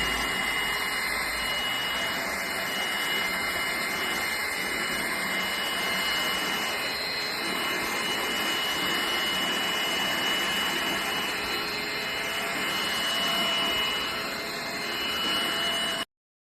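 Cordless stick vacuum cleaner running steadily, its motor giving a constant high-pitched whine over a rushing of air, then cutting off suddenly near the end.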